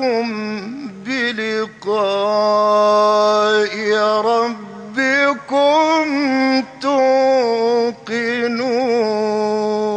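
A man reciting the Quran in the melodic mujawwad style, singing long held notes with wavering ornaments between them, broken by a few brief pauses for breath.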